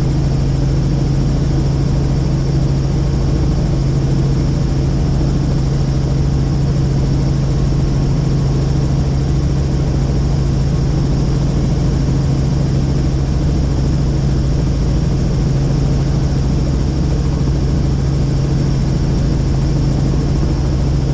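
Helicopter running steadily in flight, heard from inside the cabin: an even drone of engine and rotors with a strong low hum that never changes.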